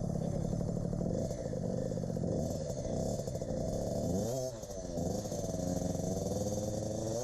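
KTM 50 SX two-stroke single-cylinder dirt bike engine running, its revs rising and falling with the throttle. The revs drop and pick back up about four and a half seconds in.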